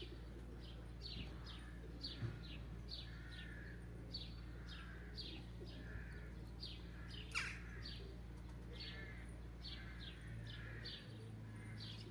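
Small birds chirping: a steady run of short, high chirps that each fall in pitch, about two a second, with softer calls lower down beneath them.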